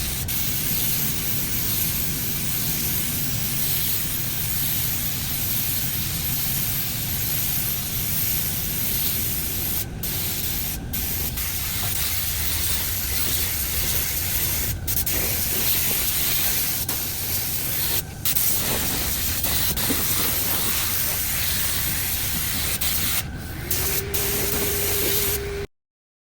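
Compressed-air spray gun hissing steadily as it sprays, with a handful of very short breaks in the spray. It cuts off suddenly just before the end.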